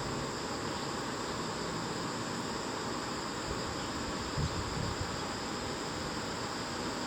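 Insects chirring steadily over a constant hiss, with a soft low thump about four and a half seconds in.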